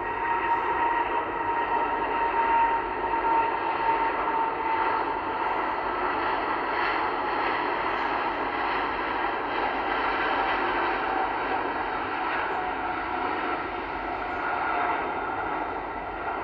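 Jet airliner engines running steadily, with a whine near 1 kHz that drifts slightly lower over the first few seconds.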